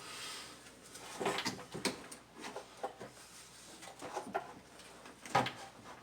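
Intermittent knocks and clatter of engine parts being handled and shifted in the engine bay, the loudest knock about five seconds in.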